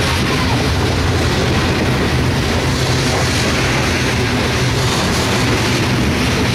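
Empty covered hopper cars of a CSX freight train rolling past close by: a steady, loud rumble of steel wheels on the rails.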